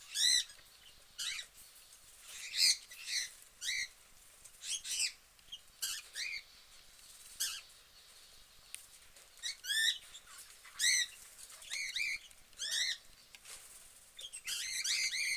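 Caged budgerigars chirping: a continual run of short, high chirps, coming in quicker clusters near the end.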